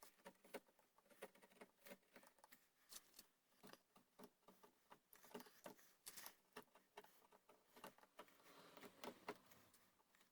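Faint, irregular small clicks and short scrapes of hand tools cutting wood, with a denser run of scraping near the end.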